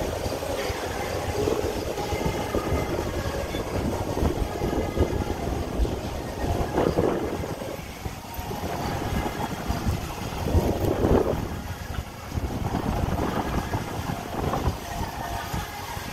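Strong wind buffeting the microphone: a steady low rumble with louder gusts about seven and eleven seconds in.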